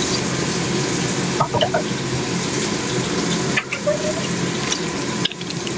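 Water running steadily from a kitchen tap, with a few brief clinks about a second and a half in and again near the end.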